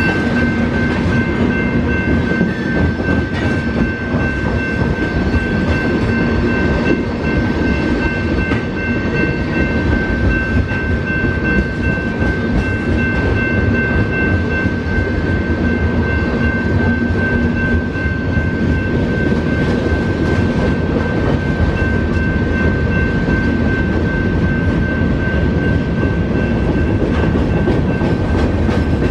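Freight train's tank cars and covered hoppers rolling steadily past: a continuous rumble of steel wheels on the rails, with a steady high-pitched ringing tone over it.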